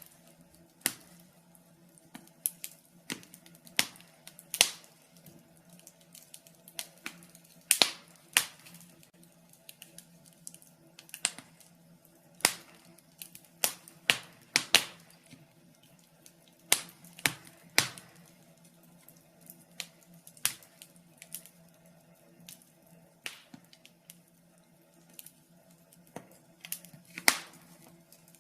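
Wood fire in a fireplace crackling: irregular sharp pops and snaps, one to three a second and uneven in loudness, over a faint steady hum.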